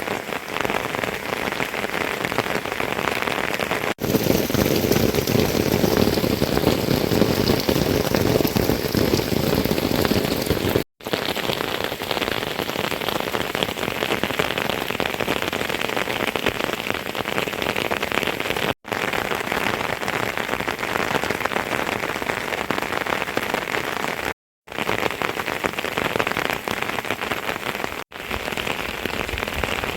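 Heavy rain pouring down: a dense, steady hiss that swells louder for a few seconds near the start, and cuts out for an instant four times.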